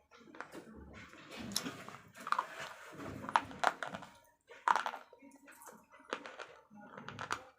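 Slate pencils being bitten and chewed: irregular sharp crunches and snaps with gritty grinding between them.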